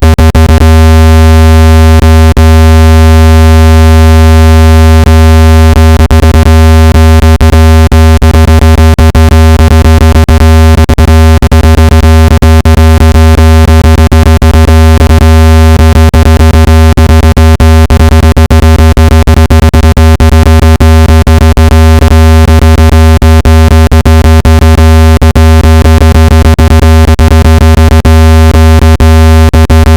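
Steady, very loud, low buzzing test tone with many overtones, played to shake water and dust out of a phone speaker. It holds one unchanging pitch, with frequent brief clicks through it.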